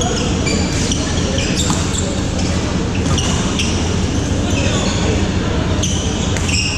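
Rubber-soled shoes squeaking in short chirps on an indoor court floor, with occasional knocks and thuds, over a steady rumble of voices.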